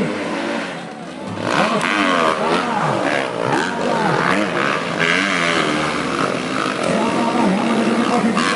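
Several dirt bike engines revving at race pace, their pitches rising and falling over one another as they accelerate and shift. The engines swell in after a brief lull about a second in.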